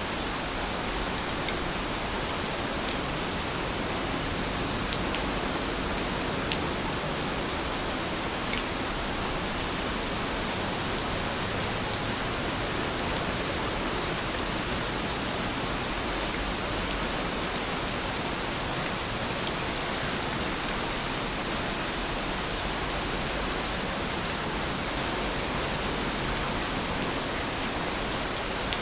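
Steady rain falling, an even hiss with a few sharp single drop ticks.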